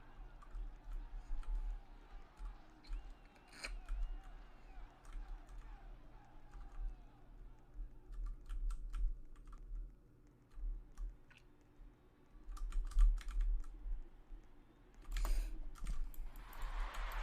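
Scattered, irregular clicks and taps over a low steady hum.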